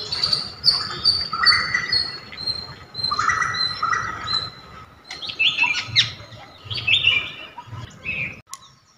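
Birdsong sound effect: a small bird chirping and twittering in quick runs of short, high calls. The calls get busier in the second half and stop abruptly shortly before the end.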